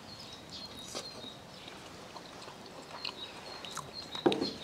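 Quiet outdoor background with faint, short bird chirps repeating throughout, a few soft clicks, and a brief murmur of a man's voice near the end.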